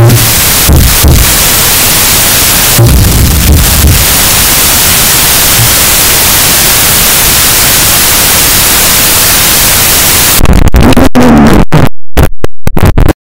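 Harsh noise music: a loud, distorted wall of static with low thuds in the first four seconds. Near the end it breaks into rapid stuttering cut-up bursts, then stops abruptly.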